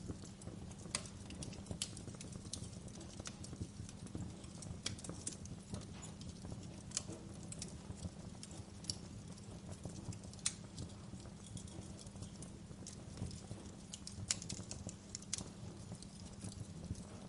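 Fire crackling in a fireplace: irregular sharp pops and snaps, a few louder than the rest, over a steady low rumble.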